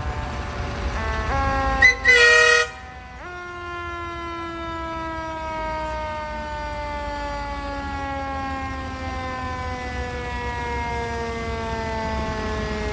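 Fire truck siren winding slowly down in pitch, cut across about two seconds in by two loud air-horn blasts, the second longer. The siren then jumps back up in pitch and winds slowly down again.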